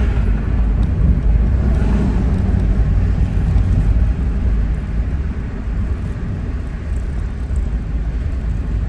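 Road and engine noise of a moving car: a steady low rumble with tyre hiss, easing slightly partway through.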